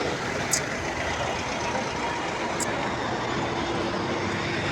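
Steady road traffic noise of passing vehicles, with a short sharp tick about half a second in.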